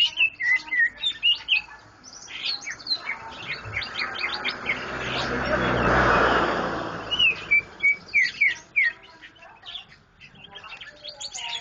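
Small songbirds chirping in quick runs of short, downward-sweeping notes. A rushing noise swells and fades in the middle, loudest about halfway through.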